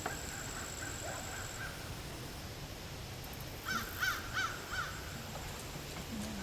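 A bird calls four times in quick succession, about four seconds in, with short harsh calls over a faint steady background.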